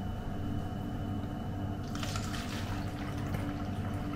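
Liquid pouring or running, with a short hissing splash about two seconds in, over a steady low hum.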